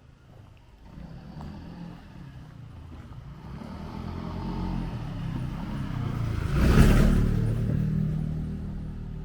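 A motor vehicle approaching and driving past: engine and tyre noise grows for several seconds, is loudest about seven seconds in, then fades.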